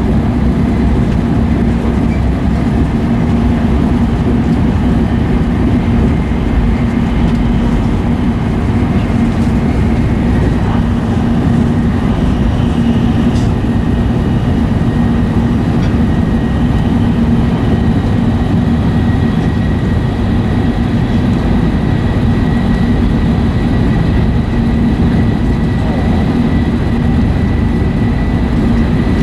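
E5 series Shinkansen train running steadily, heard inside the passenger cabin: an even rumble from wheels, track and air, with a strong low hum and a faint high whine.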